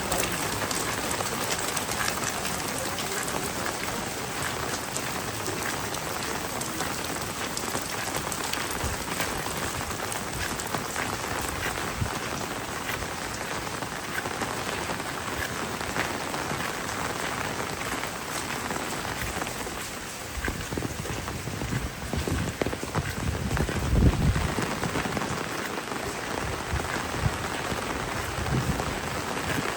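Heavy rain pouring steadily onto surfaces, an even dense hiss of drops. About three-quarters of the way in, a low rumble swells and peaks briefly before dropping back.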